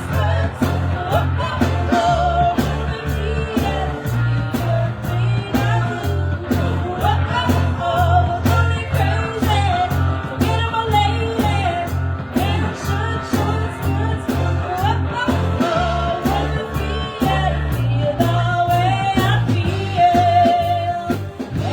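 Live band playing a rock-and-roll song: a singer holding wavering notes over steady bass notes and an even drum beat. The music stops right at the end.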